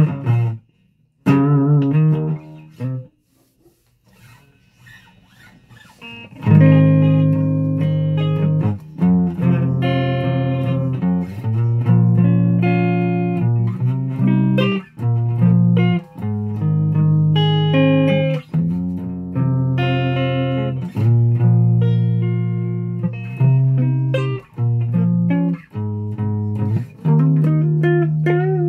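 Guitar being played: a few wavering notes, a pause of about three seconds, then a run of sustained notes and chords over a steady low note.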